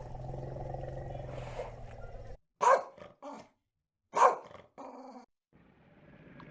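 A dog growling low and steadily for about two seconds, then two loud barks a second and a half apart, each followed by a softer shorter bark.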